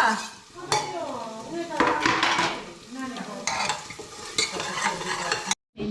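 Kitchen utensils clinking and scraping against pots and dishes while food is stirred, with a few faint voices in the background.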